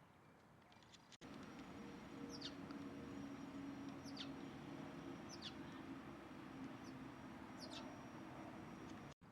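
A bird giving short, high, falling chirps, about five spaced a second or more apart, over a faint low hum. The sound starts abruptly about a second in and cuts off just before the end.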